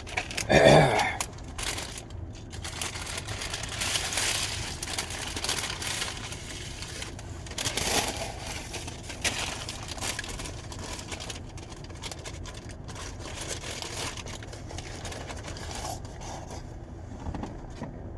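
Food packaging being handled: paper rustling and crinkling with scattered scrapes and small knocks. A brief vocal sound comes about a second in.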